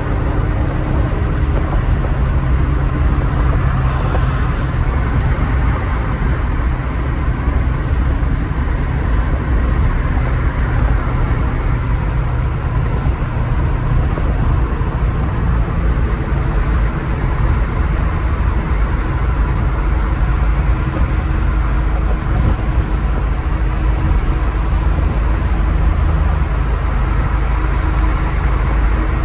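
1970 Porsche 911S's air-cooled flat-six running steadily while driving, with road and wind noise, heard from inside the car.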